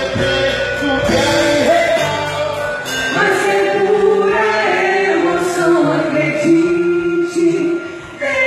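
Music with a group of voices singing long held notes; the bass and beat drop out about three seconds in, leaving mostly the sung voices.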